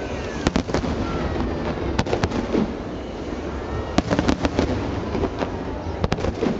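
Nagaoka fireworks bursting: sharp bangs in clusters of two or three, about every two seconds, over the steady murmur of a crowd.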